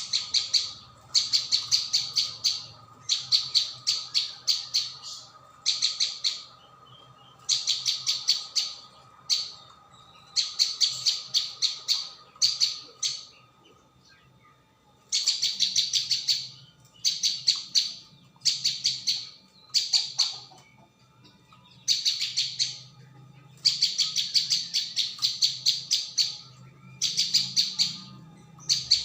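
Prenjak bawah (ciang-ciang) bird song from a looped lure recording: bursts of fast, sharp chirps, each a second or two long, repeated again and again with short gaps.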